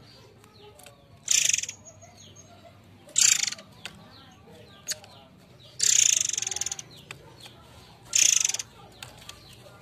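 Murai air (forktail) giving four loud, harsh, high-pitched rasping calls a couple of seconds apart, the third the longest, with faint small chirps from other birds between them.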